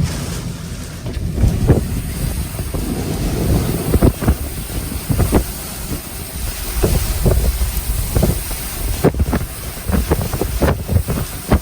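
Severe thunderstorm wind gusting hard and buffeting the microphone: a loud, uneven low rumble broken by many sharp gusty hits.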